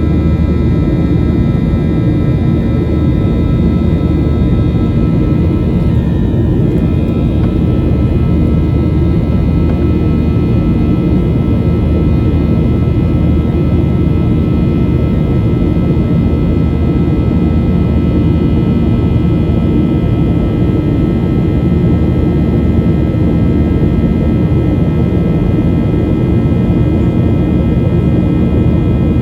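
Boeing 737-800 cabin noise: the steady drone of its CFM56-7B turbofan engines and rushing airflow, with several steady whining tones from the engines.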